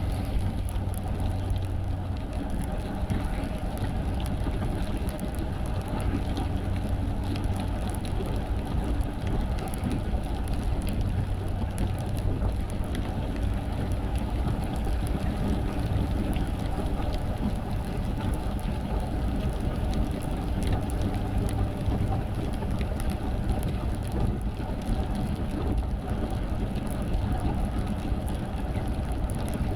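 Car driving in rain: a steady low engine and road rumble, with raindrops ticking on the body and glass.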